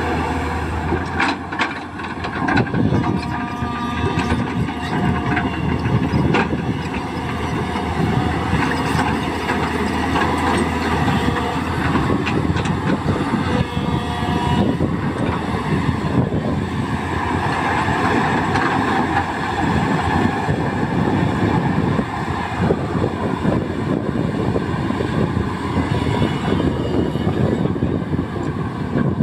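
Tata Hitachi EX200LC excavator working: its diesel engine runs continuously under load, rising and falling, with a few sharp knocks and clanks from the machine early on.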